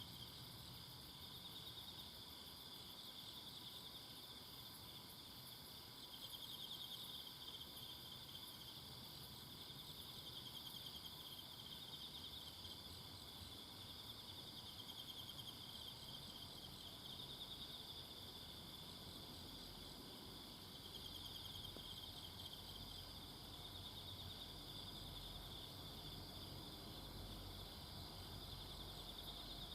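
A faint, steady chorus of several kinds of insects singing in a forest, a rapid pulsing trill high in pitch with finer ticking above it. It swells slightly in loudness a few times.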